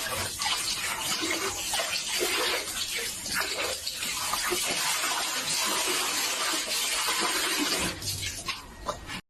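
Running water, a steady rushing hiss with irregular splashes, that cuts off suddenly near the end.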